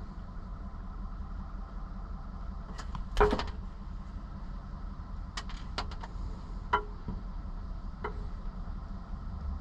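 A steady low mechanical hum, with a handful of sharp clicks and knocks from hardware being handled, the loudest about three seconds in.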